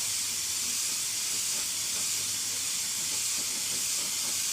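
Compressed-air paint spray gun spraying, a steady hiss of air and atomised paint held without a break.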